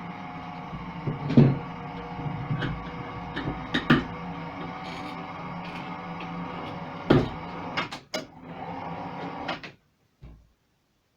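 Motor of the closet lift running with a steady hum while the wooden closet moves, knocking and clunking about three times. The motor stops near the end.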